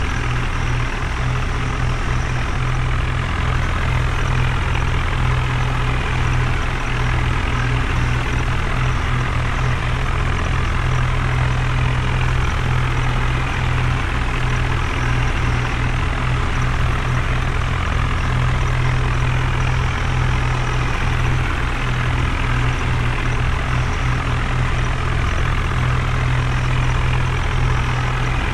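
Heavy diesel engine running steadily, a constant low hum that holds the same pitch throughout.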